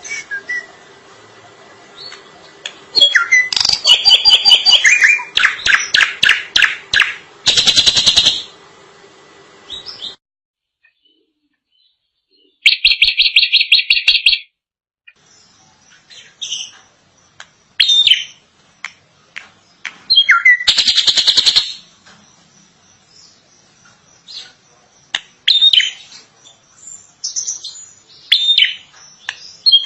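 A drongo singing a varied series of loud whistles, rapid repeated chirps and harsh buzzy notes in short bursts, with brief pauses between phrases. There is a stretch of silence about ten seconds in.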